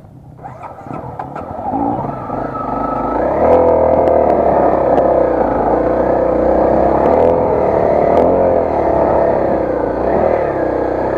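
Honda CRF250L's single-cylinder four-stroke engine accelerating, building up over the first few seconds and then held at high revs, its pitch rising and falling with the throttle. A few sharp clicks sound over it.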